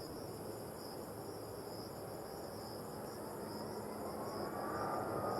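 Insects chirping in a steady, pulsing high buzz. Near the end a rising whine grows slowly louder, typical of a jet airliner approaching.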